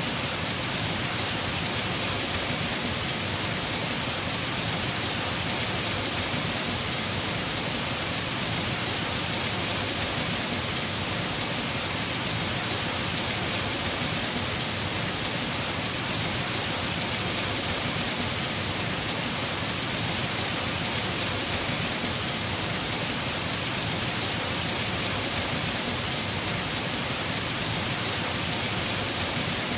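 Heavy rain falling steadily on a house roof, a dense, even hiss of drops.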